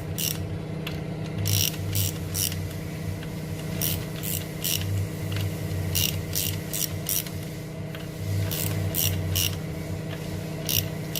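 Ratchet wrench clicking as connecting-rod bolts on a V8 engine block are snugged up, in short groups of three or four clicks every couple of seconds, over a steady low hum.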